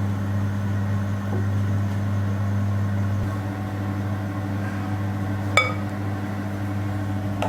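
LG convection microwave oven running with a steady hum as it preheats. About two thirds of the way through there is a single ringing clink.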